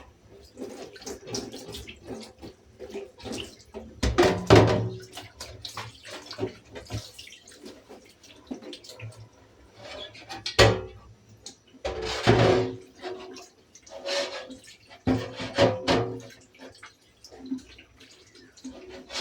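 Water running and splashing in uneven surges, with several sharp knocks and clatters, as things are washed by hand.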